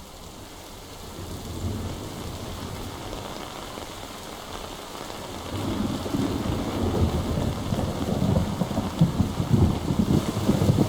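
Recorded rain with thunder rumbling, played as a relaxing-sound ambience. The rumble grows louder about halfway through.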